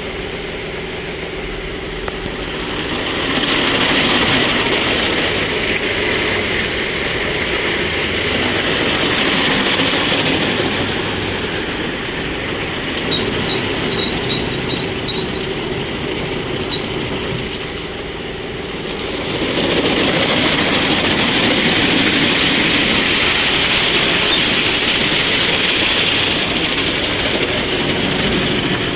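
Automatic car wash running: a steady rushing noise of spray and machinery over a low hum, swelling louder twice for several seconds each time.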